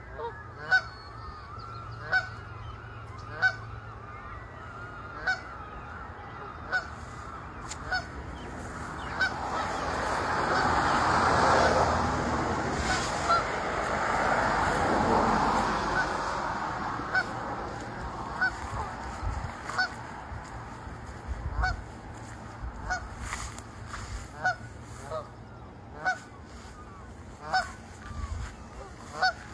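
Goose honking over and over, single short honks about every second or so. A broad rushing noise swells and fades for several seconds in the middle.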